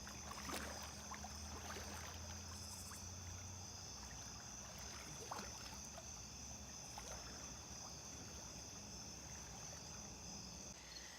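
Faint sloshing and small splashes of water in a swimming pool as someone moves in it, over a steady high chirring of crickets.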